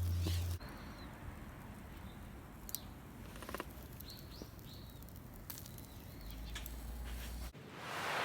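Quiet steady hiss with a few sharp clicks and several faint, short, high chirps; the background changes abruptly about seven and a half seconds in.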